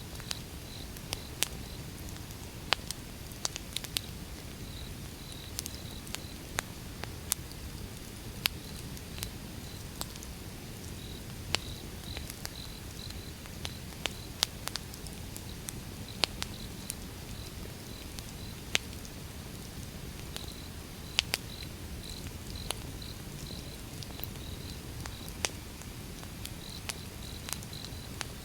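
Wood fire burning: irregular sharp crackles and pops from the burning logs over a low, steady rumble. A faint high chirp repeats in short pulses throughout.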